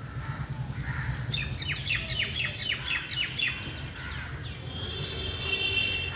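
Birds chirping: a quick run of about ten short downward-sweeping chirps in the first half, then a held high whistled note near the end, over a low steady background rumble.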